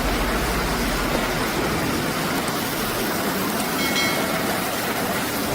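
Steady, rushing roar of floodwater or a mud flow, with a brief faint high tone about four seconds in.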